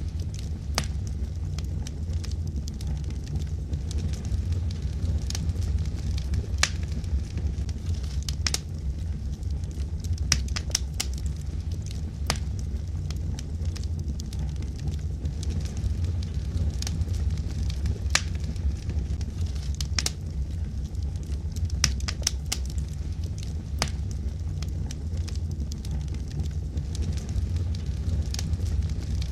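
Wood logs burning in a fireplace: a steady low rumble of the flames with irregular sharp crackles and pops.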